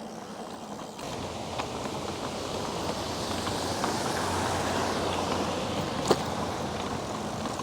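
Rushing wind and road noise of a bike ride, swelling through the middle and easing off, with a single sharp click about six seconds in.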